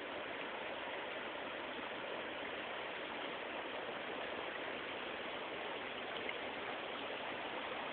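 Oak Creek in flash flood: fast, swollen floodwater rushing in a steady, unbroken roar of water noise.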